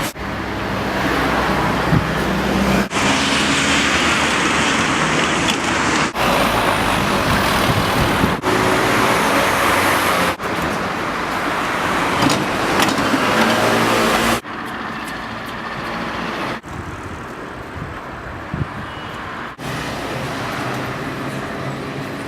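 City street traffic noise: passing cars and other motor vehicles as a steady rumble and hiss, in short pieces that cut off abruptly every few seconds, somewhat quieter in the last third.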